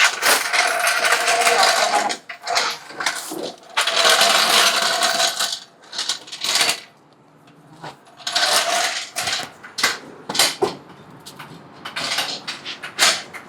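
Hand work on a car exhaust: two stretches of steady hissing, whirring tool noise, then a run of sharp metallic clinks and taps from tools and hardware.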